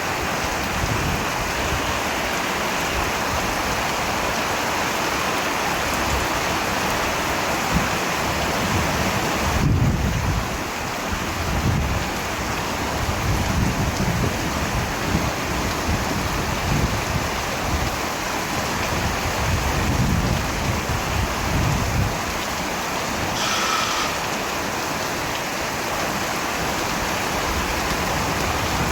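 Steady heavy rain, with low rolls of distant thunder swelling and fading through the middle.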